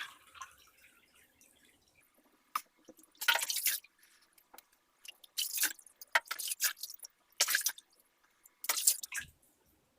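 Water splashing in a bathtub in about five short bursts, as water is scooped and poured over a cat being bathed.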